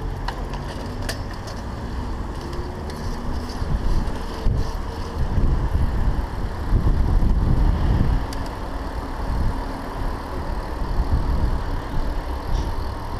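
Mountain bike being ridden, with a heavy low rumble of wind on the microphone that swells in the middle, and scattered clicks and rattles from the bike.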